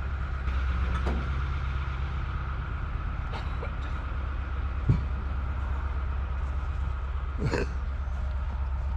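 Heavy diesel engine of crane equipment running steadily, a low rumble with a steady higher whine over it and a few short knocks.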